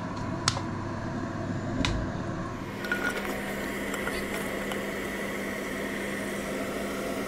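Carrots sizzling as they fry in hot oil in a pan. Two sharp knocks come in the first two seconds, and a steady low hum starts about three seconds in.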